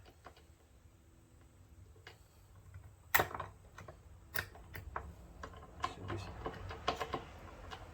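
Irregular metallic clicks and clacks from a Peerless 206 transaxle's gear selector being shifted by hand through its gears: one sharp click about three seconds in, then a quicker run of smaller clicks toward the end.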